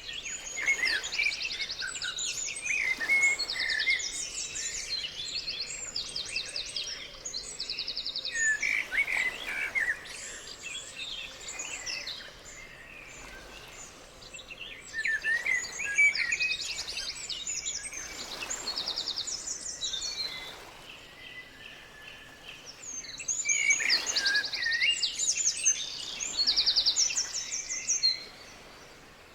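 Several small birds chirping and trilling, with rapid repeated notes and short whistled glides overlapping in busy spells, broken by two quieter lulls.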